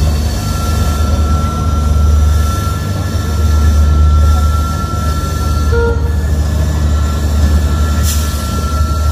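Passenger train hauled by diesel locomotives, heard from an open coach window: the steady low rumble of the locomotives and wheels on the rails, with a steady high-pitched whine over it.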